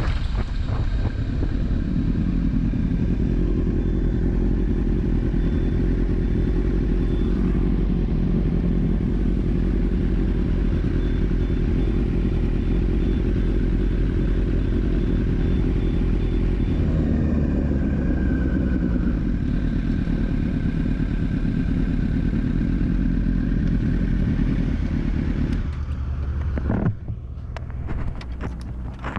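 Motorcycle riding at speed, its engine running under steady wind rush on the microphone. The sound shifts about two-thirds of the way through and dies down near the end as the bike slows.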